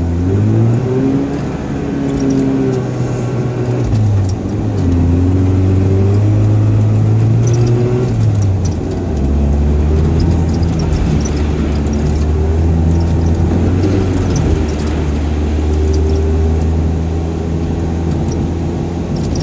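Mazda RX-7's naturally aspirated 13B rotary engine revving under load while drifting on snow, its pitch climbing, falling back and climbing again, then dropping to a lower, steadier pitch a little under halfway through.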